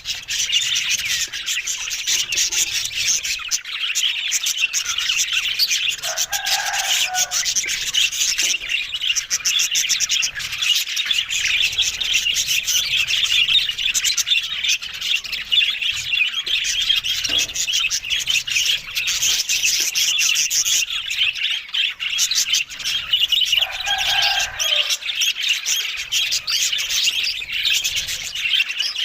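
Budgerigars chirping and chattering without a break, a dense scratchy warble. Twice a lower call stands out over it.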